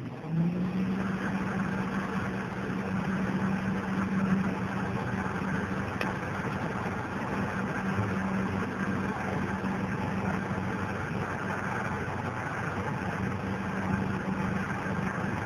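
Microwave oven starting up and running steadily: a low electrical hum with a steady fan-like whir.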